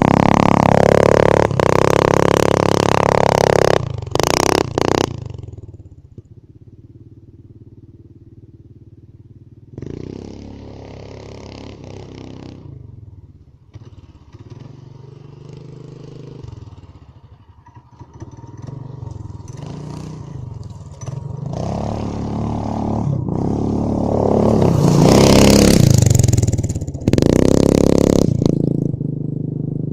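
Mini bike engine running: loud at first and falling in pitch, then dropping away about four seconds in to a quieter, uneven running. It builds again with rising revs to its loudest near the end, then cuts back suddenly.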